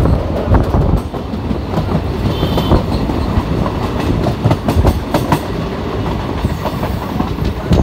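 Passenger train running along the track, heard from inside a coach by the open window: a steady rumble with the wheels clacking over the rail joints.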